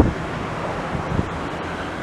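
Steady rushing roar of a jet airliner during its landing, with wind on the microphone.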